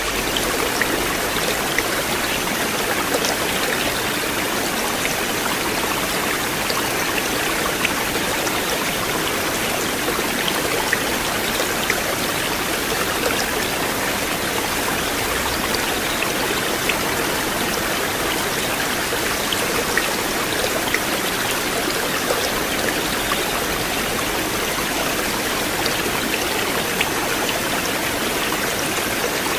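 River water flowing steadily, a continuous rushing with small scattered splashes.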